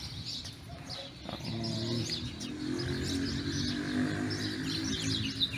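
Many small birds chirping in quick, scattered calls. Under them, from about a second and a half in, runs a low steady hum with a pitch.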